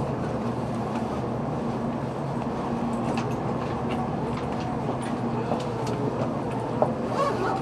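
Steady cabin noise of a Tokaido Shinkansen (Nozomi) bullet-train car heard from inside: an even rumble with a low hum and faint scattered clicks.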